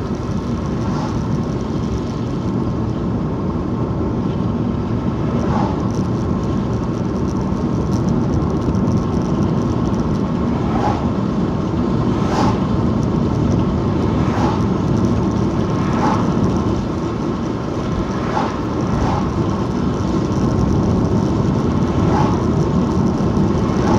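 Car cabin noise while driving: a steady rumble of engine and tyres on the road, with faint short knocks every second or two.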